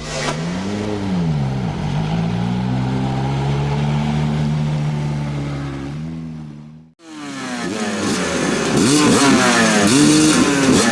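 Motocross bike engine running at a fairly steady pitch after a quick blip of the throttle; after a sudden cut about seven seconds in, several motocross bikes rev together, louder, their pitches rising and falling.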